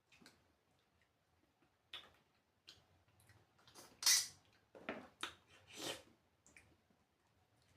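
Close-up mukbang eating sounds: a string of short mouth and dish noises, with the loudest burst about four seconds in and a quick cluster of three or four more just after.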